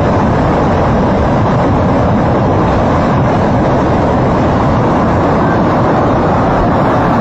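Muddy waterfall: water heavy with mud pouring down in a loud, steady, deep rushing.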